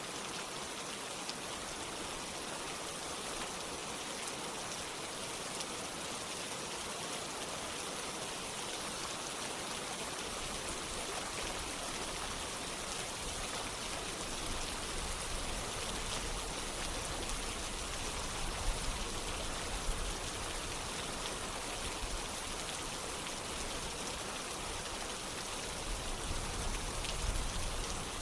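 Steady rain falling, mixed with running water. Low rumbling joins from about ten seconds in, with a few louder moments in the middle and near the end.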